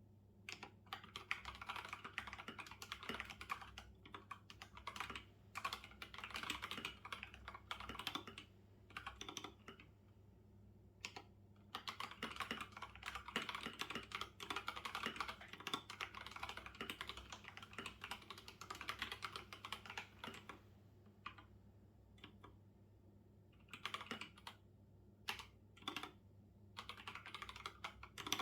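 Typing on a computer keyboard in irregular runs of rapid key clicks, with short pauses between bursts and a few single keystrokes.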